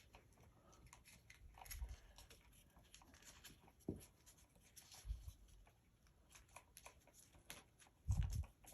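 Faint handling noise while working on ceiling-fan wiring: scattered light clicks and a few soft thumps, the loudest thump near the end.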